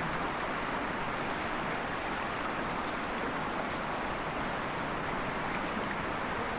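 Steady rushing of fast-flowing water, as of a mountain river, an even hiss without pauses.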